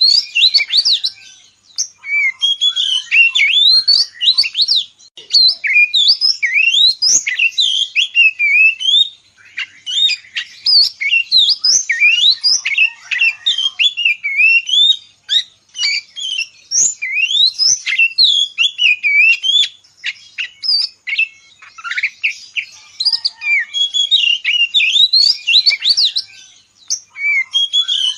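Oriental magpie-robin singing a fast, varied song of quick rising and falling whistled notes, in runs of several seconds broken by short pauses.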